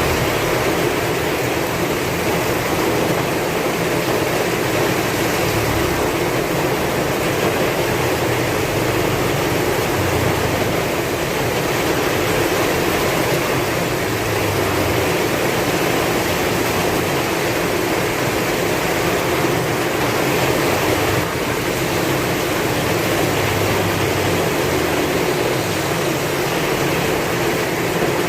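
Heavy rain falling steadily with a low rumble of strong wind underneath.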